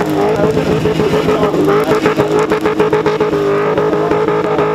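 Holden Commodore ute's engine held at high revs during a burnout, its pitch staying nearly steady as the rear tyres spin in smoke.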